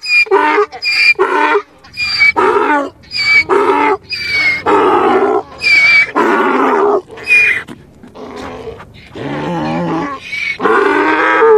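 Donkey braying: a long run of repeated hee-haw calls, short high notes alternating with longer harsh ones.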